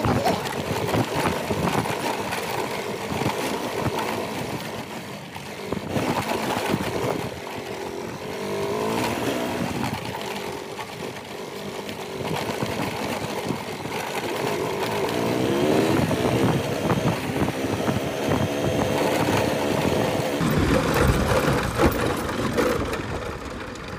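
Motorcycle engine running on the move, its pitch rising and falling a few times as the rider works the throttle.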